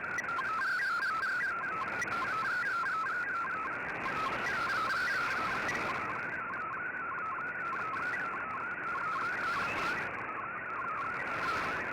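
Shortwave receiver audio of a digital-mode data transmission: a warbling stream of rapidly hopping tones around the middle of the voice range over steady band-limited hiss, typical of the MFSK data modes used on Shortwave Radiogram.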